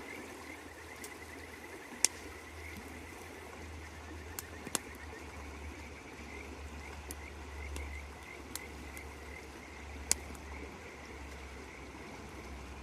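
Frogs calling in a steady run of short repeated notes over the even rush of a river. A few sharp pops from the campfire, the loudest about two seconds in and near ten seconds.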